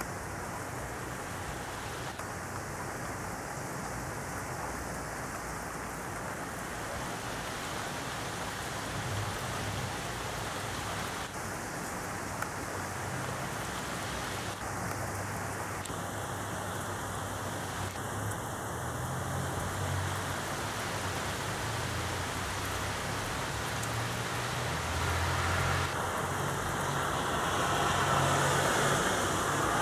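Heavy rain falling steadily on a street, with rainwater running along the kerb. Over the last few seconds the hiss grows louder as a car comes along the wet road.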